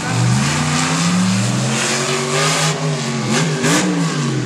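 Monster truck engine revving hard: its pitch climbs for about a second and a half, sags, then rises and falls again in a quicker rev near the end.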